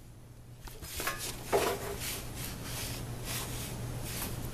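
A few clicks, then a steady hiss with irregular crackling as a gas water heater's pilot light is being lit.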